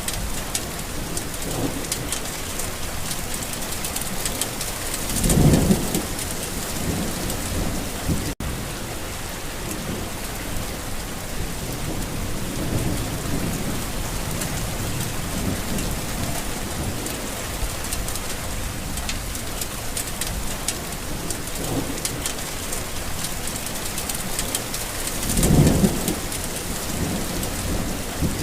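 Steady rain falling, with thunder rolling under it. The two loudest low rumbles come about five seconds in and near the end, with fainter ones between. The sound cuts out for an instant about eight seconds in.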